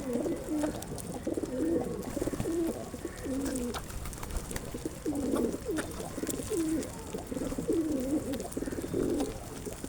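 Several pigeons cooing, their low coos overlapping one after another.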